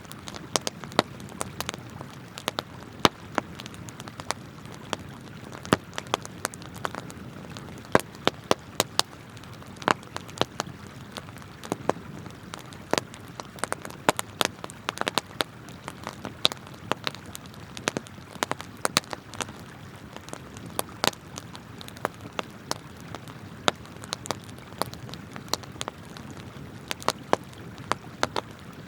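Wood campfire crackling with frequent sharp, irregular pops over a steady rush of flowing river water.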